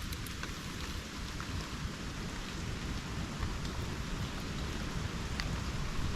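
Steady rain falling on rainforest foliage, a dense even hiss with scattered individual drop ticks and a continuous low rumble underneath.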